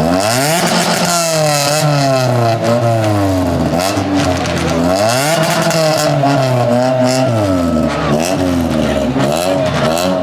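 Car engine revving over and over, its pitch climbing and falling again and again, with a burst of hiss about half a second in.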